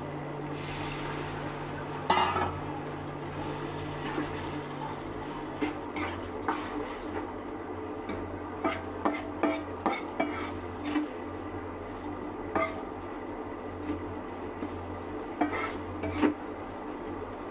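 A cooking utensil clinking and scraping against a pot while the contents are stirred. Short sharp clinks come in irregular runs from about halfway in, over a steady low hum.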